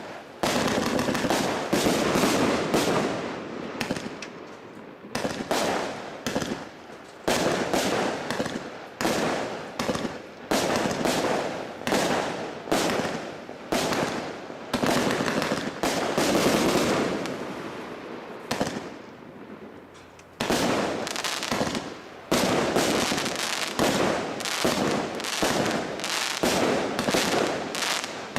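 Firework compound battery firing: a rapid series of shots launching into bangs, with crackling and fizzing between, pausing briefly a few times before firing on.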